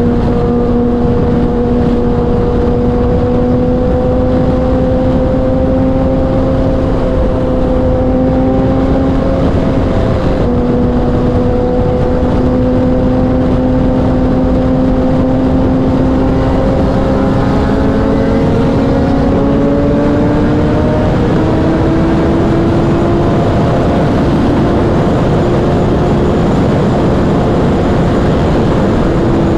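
Kawasaki inline-four sport bike engine running at high revs at highway speed, its pitch slowly creeping upward with a brief break about ten seconds in. A second engine note joins and rises past about two-thirds of the way through. Heavy wind and road noise runs under it.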